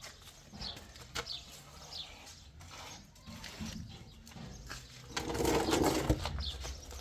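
Birds chirping, short falling chirps coming every second or so. About five seconds in, a louder rough noise lasts about a second.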